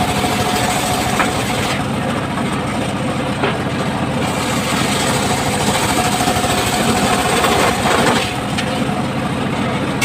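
Engine-driven circular saw rig running steadily: an engine drone with a thin, steady whine on top, and short knocks about a second in and again about three and a half seconds in.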